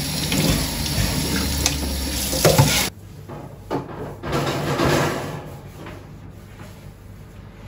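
Water running from a kitchen tap, cutting off suddenly about three seconds in. After that come quieter kitchen sounds: a couple of soft knocks and a brief swish.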